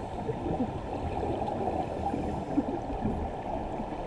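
Muffled water noise with small gurgles and bubbling, heard underwater.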